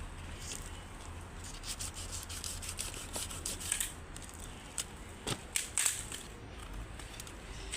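Irregular rubbing and scraping, broken by sharp clicks and knocks that are loudest about five to six seconds in.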